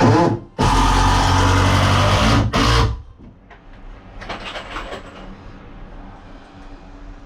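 A handheld power tool running in two loud bursts, a brief one at the start and a longer one of about two seconds that cuts off sharply, with a thin high whine over it.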